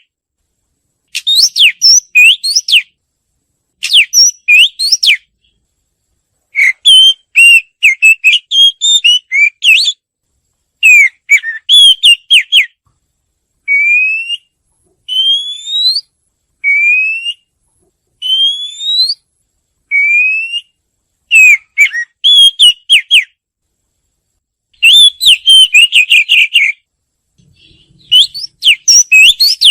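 Oriental magpie-robin singing: phrases of varied, quick whistled notes separated by short pauses, with a run of five single rising slurred whistles in the middle.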